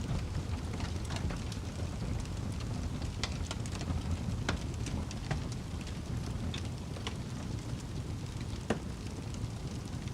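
Wood fire burning in a fireplace: a steady low rumble of the flames with irregular sharp crackles and pops, the loudest about four and a half seconds in and again near nine seconds.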